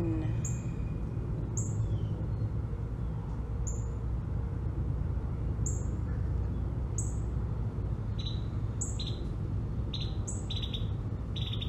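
Short, high bird chirps repeating every second or two, with a second, lower set of chirps coming in pairs from about eight seconds in, over a steady low rushing noise.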